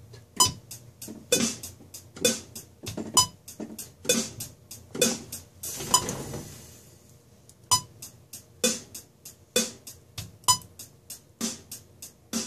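Programmed drum loop from the Native Instruments Battery Pop Kit playing back: hi-hat in steady eighth-note triplets, about three hits a second, with kick and snare landing about once a second in 3/4 time. The pattern thins out for a moment just past the middle.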